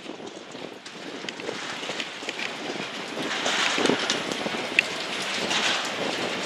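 Strong wind blowing across the microphone in a steady rushing haze, with scattered sharp ticks.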